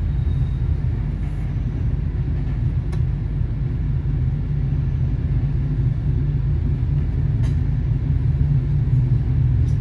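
Interior of an Italian UIC-X passenger coach rolling slowly through a station: a steady low rumble from the running gear, with a few faint clicks.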